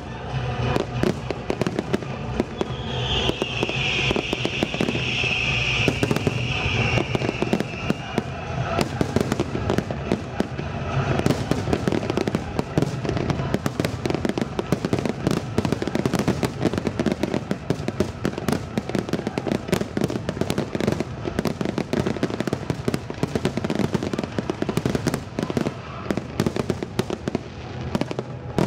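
Fireworks display: a dense, continuous run of aerial shells bursting with rapid bangs and crackling, growing denser about twelve seconds in.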